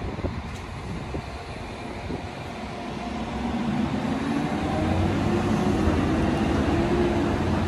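DSB passenger train, made up of an ABs coach and an IC4 (MG) unit, moving through the station. It grows steadily louder, and from about halfway through a whine rises slowly in pitch over the rumble as the train gathers speed.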